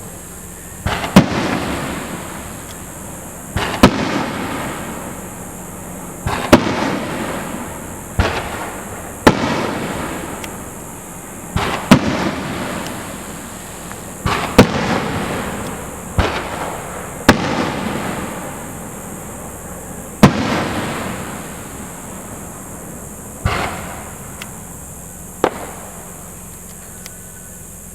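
Aerial firework shells bursting, about a dozen sharp bangs at irregular intervals of one to three seconds. Each bang is followed by a fading crackle and echo, and some are led in by a smaller launch thump.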